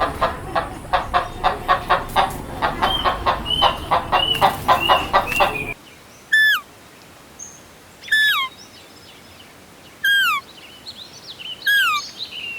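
Chickens clucking in a rapid run of short calls, a few higher chirps among them. After a cut, a single bird gives four separate falling whistled calls, about two seconds apart.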